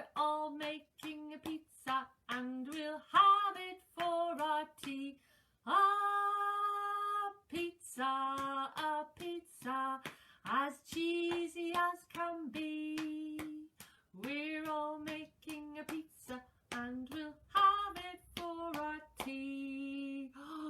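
A woman singing a children's song unaccompanied, with one longer held note, and light taps keeping the beat through it.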